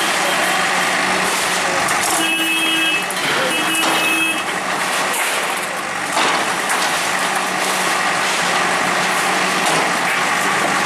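Bulldozer's diesel engine running steadily under load, with two long beeps about two to four seconds in.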